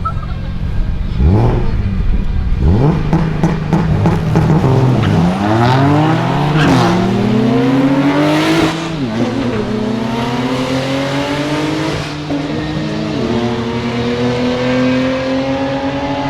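Single-turbo BMW 135i N54 inline-six at about 18 psi of boost: two short revs, then a full-throttle quarter-mile pull. The pitch climbs in each gear and drops back at three shifts, then climbs slowly in the last gear.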